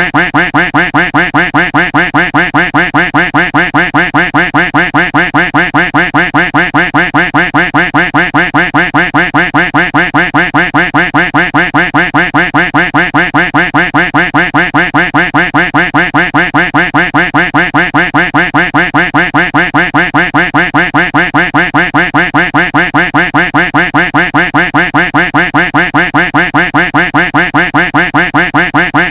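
Duck quack sound effect looped without pause: loud, evenly spaced quacks repeating rapidly, several a second.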